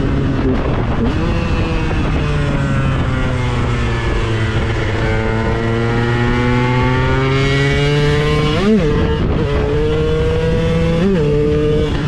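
KTM 125 EXC single-cylinder two-stroke engine running continuously. Its pitch sags slowly and climbs back, with a quick sharp rev about nine seconds in and another near the end.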